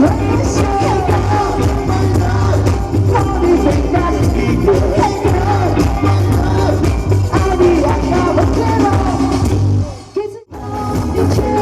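Live band playing upbeat pop music with a steady beat and a melody line. It cuts out briefly for about half a second near the end, then comes back.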